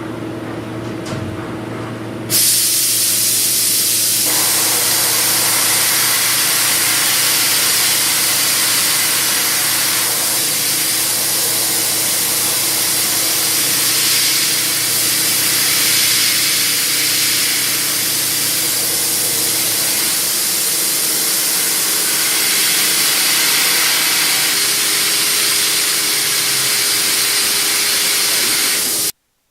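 CNC machining centre running with a steady hum. About two seconds in, a loud, steady hiss of spray starts over it and continues until the sound cuts off abruptly near the end.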